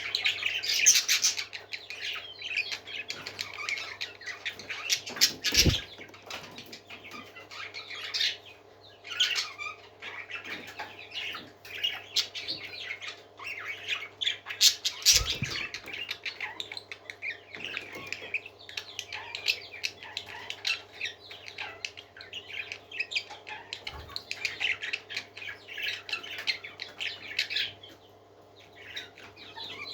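Parrots calling in a rapid, continuous stream of short squawks and chirps, over a steady low hum. Two dull thumps come at about a fifth and a half of the way through.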